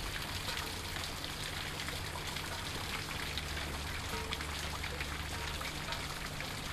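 Steady summer rain falling on garden foliage, an even hiss dotted with many separate drop ticks, over a low steady rumble.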